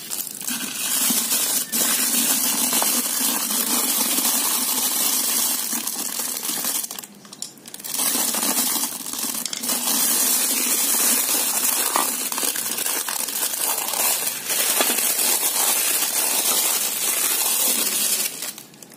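Plastic wrapping being crinkled and torn open, a continuous loud rustling with a short pause about seven seconds in.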